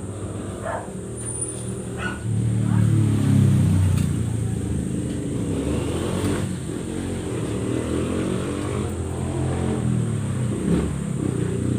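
A motor vehicle's engine running, getting louder about two seconds in and shifting in pitch as it goes.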